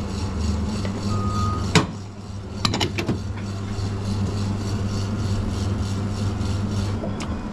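Coffee machine running with a steady low hum. A short beep sounds about a second in, then sharp clicks and knocks of handling follow around two to three seconds in.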